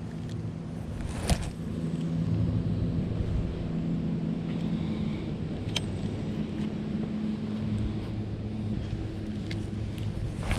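Boat motor running steadily, its low hum shifting in pitch a little. A sharp knock comes about a second in, with a couple of lighter clicks later.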